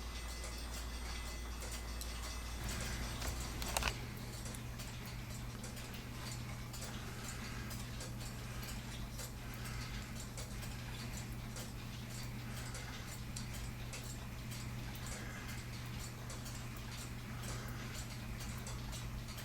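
Mechanical clock movement ticking steadily, with a single louder knock about four seconds in and a low steady hum underneath.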